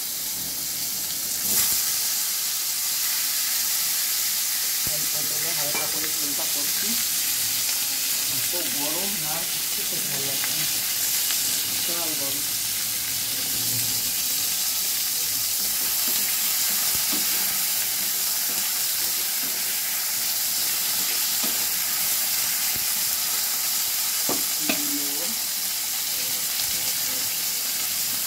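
Pointed gourd (potol) pieces frying in hot oil in a kadai: a steady sizzle.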